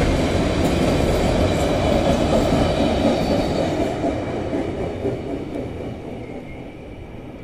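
Freight train wagons rolling by on the rails, a steady rumble with a faint wheel squeal at first, fading away over the last few seconds as the train moves off.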